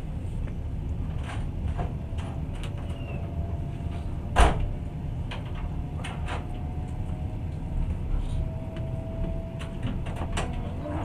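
Steady low rumble of a long-distance passenger train carriage rolling along, heard from inside, with scattered clicks and rattles and one sharp, loud knock about four and a half seconds in.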